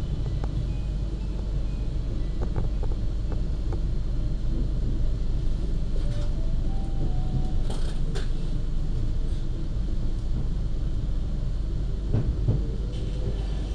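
Argo Bromo Anggrek express train running along the track, heard from inside the coach: a steady low rumble of wheels on the rails, with a few short knocks, two close together about two-thirds of the way in.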